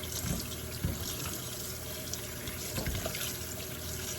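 Kitchen tap running into a sink as raw chicken gizzards are rinsed by hand under warm water, with a few soft knocks and splashes from the handling.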